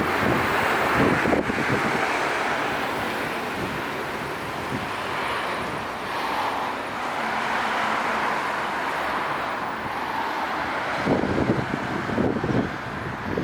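Downtown street traffic: a steady wash of passing cars, with a swell as a vehicle goes by about a second in. Near the end, uneven low bursts of wind buffet the microphone.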